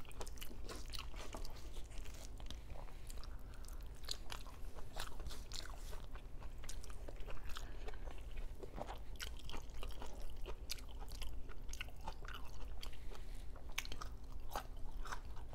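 A person chewing and biting food close to the microphone, with crunchy bites and many small wet mouth clicks.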